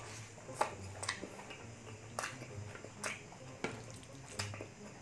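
Close-miked wet chewing and lip smacking while eating braised pork leg, with sharp wet smacks about once a second.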